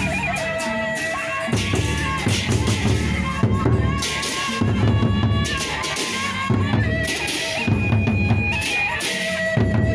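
Gendang beleq gamelan playing: repeated strokes of the large drums with bursts of clashing metal over sustained ringing metal tones.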